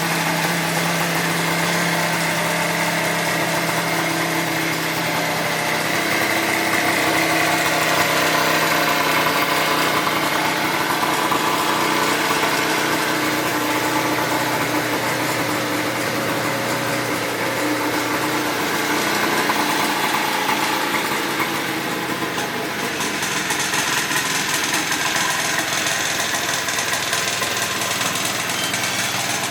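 Peugeot Speedfight 100 scooter's small two-stroke engine running at a steady idle.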